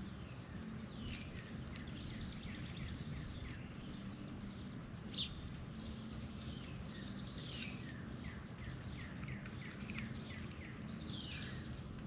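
Birds chirping in many short, falling notes, with one sharper call about five seconds in, over a steady low hum.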